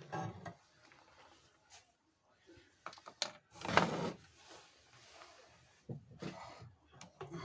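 Irregular small clicks and knocks from handling work, with one louder, short hissing burst a little under four seconds in.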